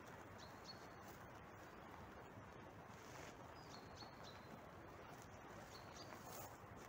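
Near-silent open-air ambience with a few faint, short, high bird chirps: one about half a second in, a pair around four seconds, and another near six seconds.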